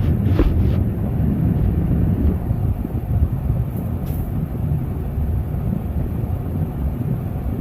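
Window air conditioner running: a steady low rumble of fan and compressor, with a faint tick about half a second in and another about four seconds in.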